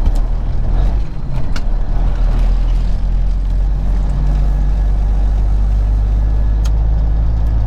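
Peterbilt 379 semi truck's diesel engine droning steadily with road noise, heard from inside the cab while cruising, with a couple of faint clicks.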